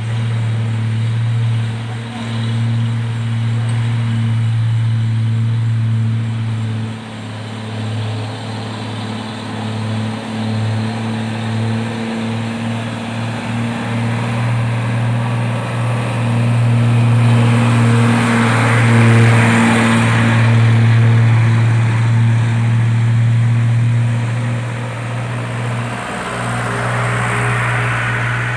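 Vehicle engine running at a steady speed: a constant low drone that holds its pitch, with hissing noise swelling about two-thirds of the way through and again near the end.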